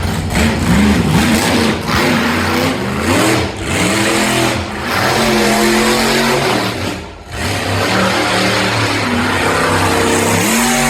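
Monster truck engine revving hard, its pitch climbing and dropping again and again as the throttle is worked, with short dips where the throttle lifts, the deepest about seven seconds in.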